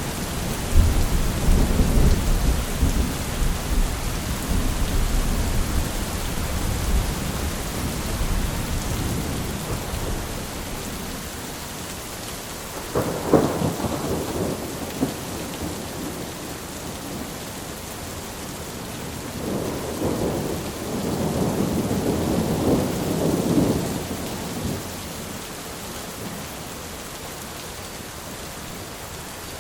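Thunderstorm: steady rain falling, with a long low roll of thunder over the first several seconds, a short sharper thunderclap about 13 seconds in, and another rumble of thunder from about 19 to 24 seconds, after which only the rain goes on.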